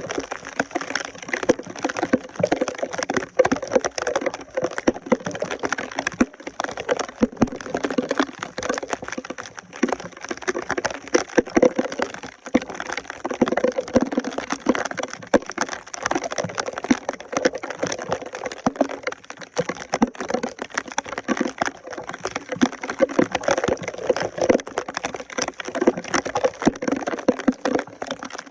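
Water gurgling and splashing with a dense, irregular crackle of wet debris, such as sticks and leaves, being worked at a clogged drain.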